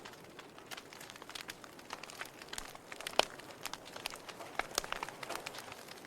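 Wood logs burning in a fireplace: irregular crackles and snapping pops over a soft hiss, with one sharp pop about three seconds in.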